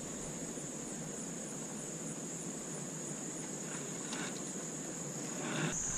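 Steady high-pitched insect chorus, a continuous shrill trill under faint outdoor background hiss; near the end it shifts slightly lower in pitch and grows louder.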